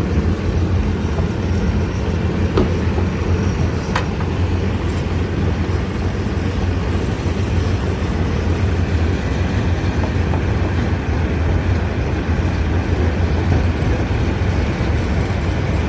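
Stone crusher machinery running with a steady, loud, deep rumble. There are two sharp knocks, about two and a half and four seconds in.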